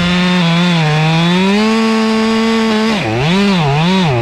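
Two-stroke chainsaw running at high revs while cutting through a white oak log, its pitch sagging and recovering under load. Near the end the revs dip and rise three times.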